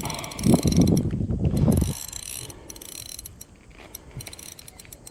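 Fishing reel clicking as a large carp is played on the line, a quick run of ratcheting ticks. Loud low rumbling thumps fill the first two seconds.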